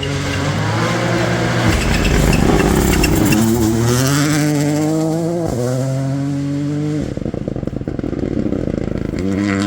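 Rally car engine accelerating hard, its pitch climbing through the gears with a shift partway through. It then lifts off into a rapid crackle on the overrun before picking up again near the end.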